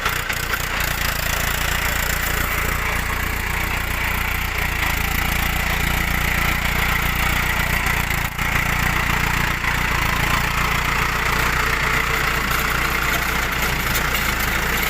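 Tractor engine running steadily at a constant speed, driving a post hole digger, with a brief dip in loudness about eight seconds in.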